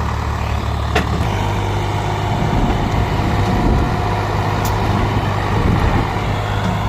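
Tractor engine running steadily, its note shifting slightly after about a second, with a sharp click about a second in.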